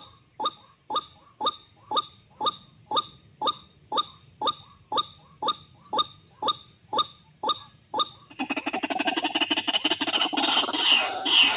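White-breasted waterhen calls: a steady series of short 'kwak' notes, about two a second, each dropping in pitch. About eight seconds in they break into a louder, dense run of rapid rising and falling calls.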